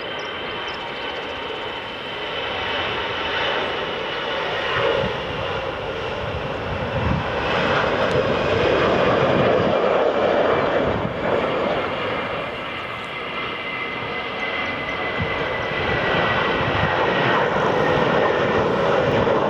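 Airliner engines running loud and steady, a broad rushing noise with a thin high whine, swelling about eight seconds in and again near the end.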